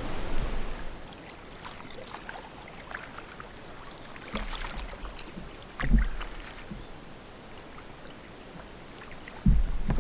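Small boat being paddled: water sloshing with small clicks, and three dull knocks, likely of the paddle on the hull, near the start, about six seconds in, and near the end.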